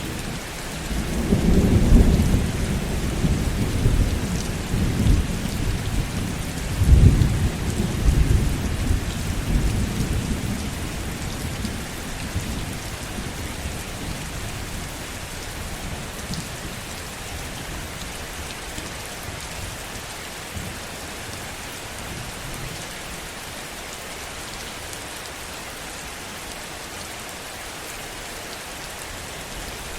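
Steady heavy rain with a rumble of thunder over the first ten seconds or so, loudest about two and seven seconds in, then fading out and leaving only the rain.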